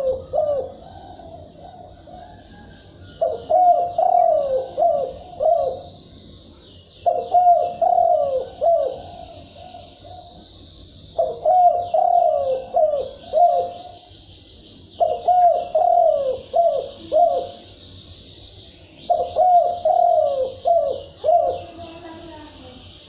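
Spotted dove (cu gáy) singing its cooing song, the 'gáy đồng' call used to lure wild doves. Each phrase is a quick run of falling coos, repeated about every four seconds. Faint, high chirping goes on continuously behind it.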